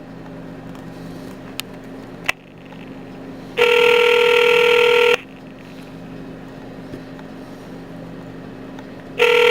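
Telephone ringback tone of an outgoing call: two steady rings about a second and a half long, roughly five and a half seconds apart, after a couple of faint clicks.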